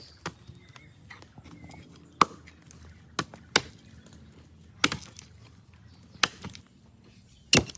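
Hand-tool blows striking wood, about one a second at an uneven pace and sometimes in quick pairs, as the wood of a wheel is chopped or chiselled into shape.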